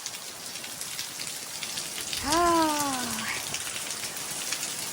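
Heavy rain pouring steadily, with many single drops tapping sharply close to the microphone.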